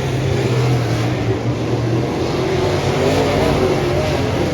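Dirt modified race car engine running hard, its pitch rising and falling as it revs up and eases off.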